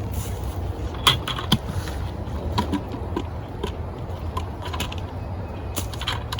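Beehive equipment being handled: a scatter of short sharp clicks and knocks, the two loudest close together about a second in, over a steady low rumble.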